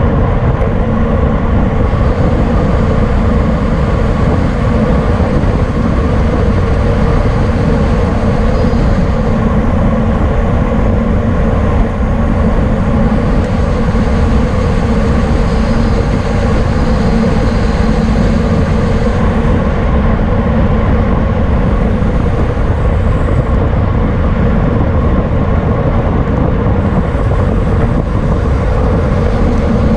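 Wind rushing over the microphone of a camera on a racing bicycle at speed: a loud, steady rush, heaviest at the low end.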